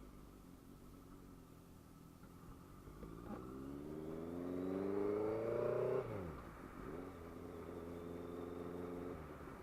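Motorcycle engine accelerating, its pitch rising for about three seconds, then dropping sharply and running at a steady pitch for about two seconds before fading out near the end.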